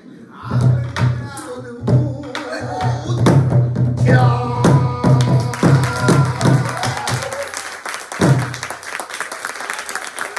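Pansori buk (barrel drum) played in a fast run of strong strokes, with voices over it, ending on a final stroke about eight seconds in. Applause rises through the second half.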